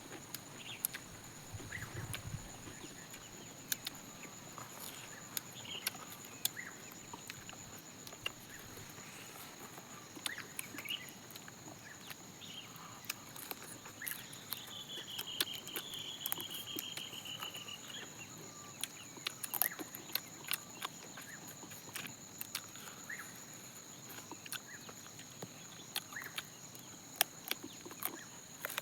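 Irregular crisp clicks and crunches of chewing and handling fried chicken close to the microphone, over a steady high insect drone. Scattered bird chirps come and go, with a short trilled bird call about halfway through.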